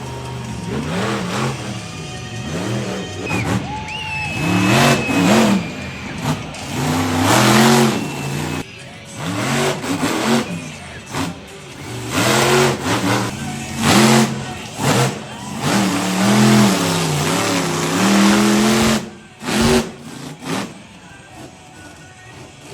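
Monster truck engine revving hard in repeated bursts, its pitch climbing and falling about once a second, with a lull near the end.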